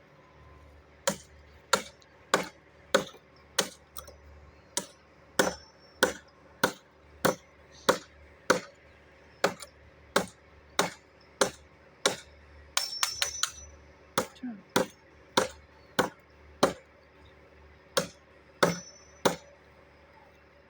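A machete chopping a hard pau-ferro (ironwood) log, one sharp strike after another at the same spot, at a steady pace of a little under two strokes a second. A quick flurry of blows comes about halfway through.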